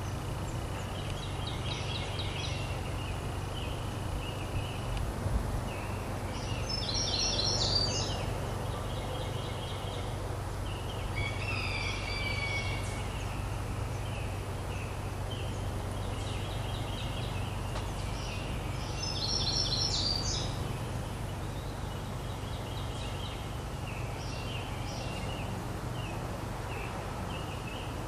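Small birds singing: short runs of high chirping notes repeated a few seconds apart, over a steady low hum.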